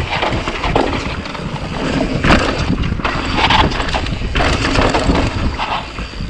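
Mountain bike riding fast down a loose, rocky dirt trail: tyres crunching and skittering over rock and dirt with irregular knocks and rattles, and wind buffeting the camera microphone.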